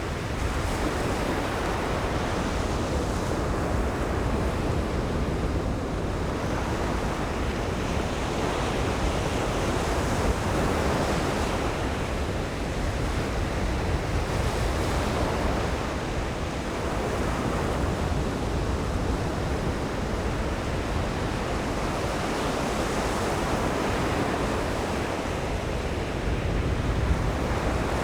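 Ocean surf washing onto a beach: a continuous hiss of breaking waves that swells and eases every few seconds. A low wind rumble on the microphone runs underneath.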